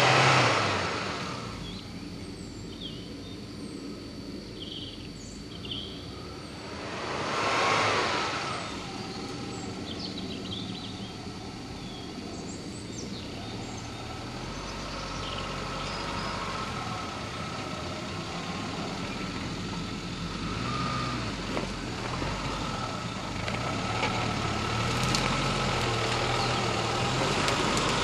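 Suzuki Samurai 4x4 engine running at low revs as it crawls off-road over a dirt mound, getting louder near the end as it comes close. Two louder rushes of noise come at the start and about eight seconds in.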